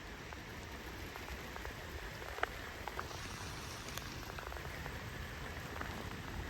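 Thunderstorm rain falling steadily, with individual drops ticking on a nearby surface; one sharper tick about two and a half seconds in.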